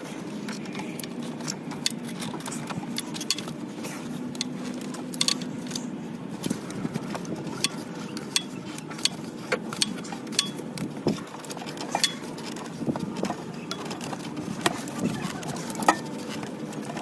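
Scattered metallic clicks and clinks of hand tools and parts being handled, over a steady low hum.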